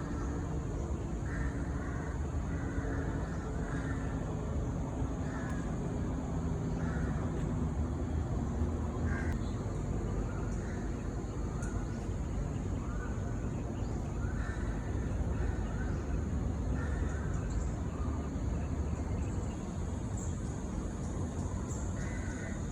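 A bird calling again and again in short harsh notes, over a steady low rumble and a steady high hiss.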